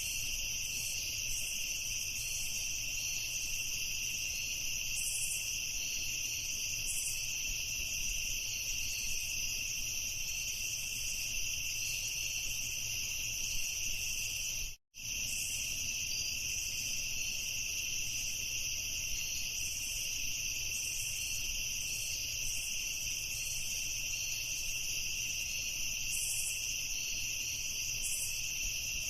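A dense chorus of crickets chirping steadily, a continuous high-pitched trill. It drops out completely for a split second about halfway through.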